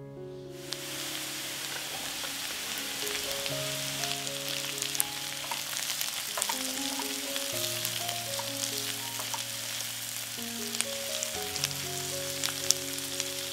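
Food frying in a hot pan: a steady sizzle that starts about half a second in, with scattered sharp pops and crackles. Background music with held notes plays underneath.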